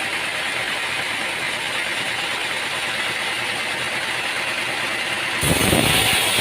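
Machinery running steadily with a rattling hiss. Near the end it switches abruptly to a louder, deeper rumble.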